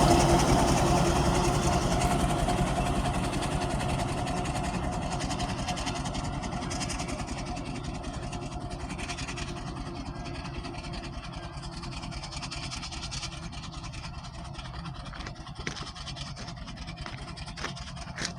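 Burrell steam traction engine running, a dense clatter of beats that fades steadily, as if the engine is drawing away. A pair of steady tones dies away in the first couple of seconds.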